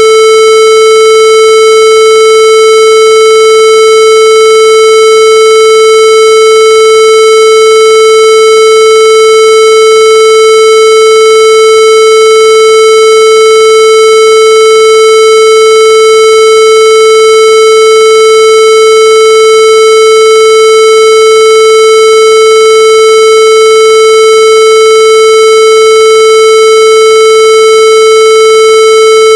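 A loud, steady electronic tone, held at a single unchanging pitch with a harsh, buzzy edge.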